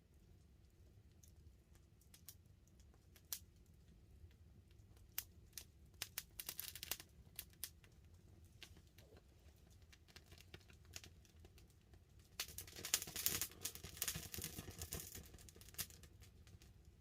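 Wood campfire crackling: scattered sharp pops and snaps, a short flurry about six seconds in, then a denser spell of crackling for about three seconds in the second half.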